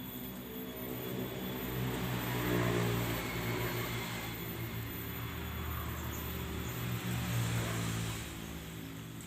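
A motor vehicle's engine droning; it grows louder about two seconds in, holds, then fades away near the end, as when a vehicle passes by.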